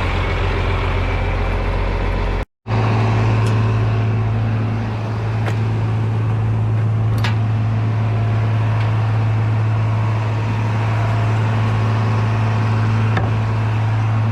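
Steady, loud hum of running farm machinery, with a strong low drone and a few faint clicks over it. The sound cuts out abruptly for a moment about two and a half seconds in, then the machine hum resumes at a slightly different pitch.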